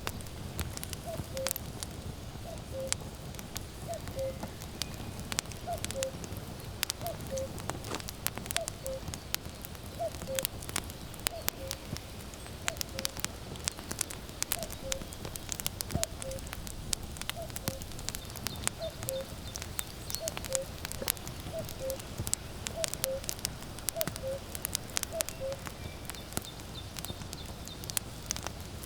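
Wood fire crackling and popping steadily, with a common cuckoo calling its two-note falling "cuck-oo" over and over, about once every second and a half, until near the end.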